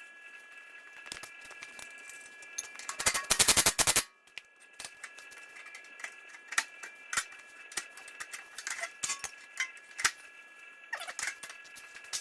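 Scattered sharp clicks and knocks of work on the machine, with a burst of rapid even clicking about three seconds in that lasts about a second and is the loudest part.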